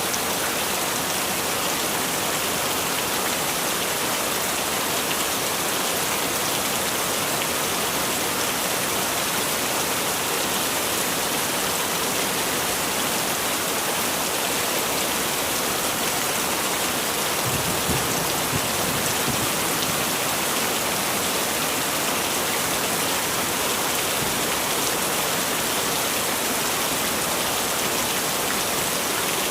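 Heavy rain falling in a steady hiss, with a brief low rumble a little past the middle.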